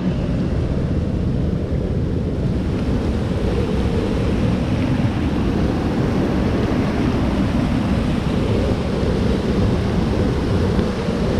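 Waterfall rushing: a loud, steady, deep roar of falling water that cuts off suddenly.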